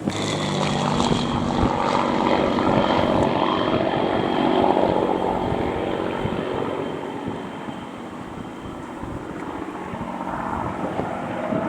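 An aircraft's engines passing close by, with a thin high whine over a low drone. It grows loudest about five seconds in, then fades away.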